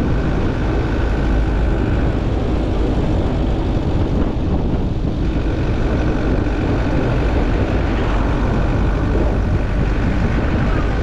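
A moving vehicle: steady road and engine noise with a strong low rumble.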